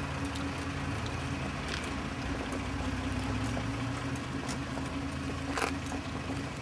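Car engine idling steadily, with a few short clicks over it, the clearest about five and a half seconds in.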